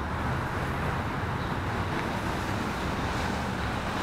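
Steady street traffic noise with a low engine hum underneath.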